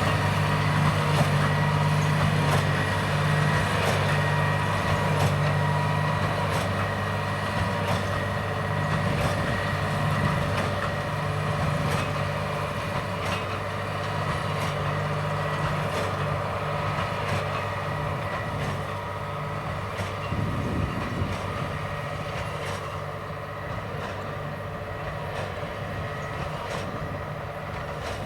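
John Deere 8330 tractor's six-cylinder diesel pulling hard under steady load, with a Krone BigPack square baler's plunger knocking in a regular beat a little faster than once a second. The whole sound slowly fades as the rig moves away.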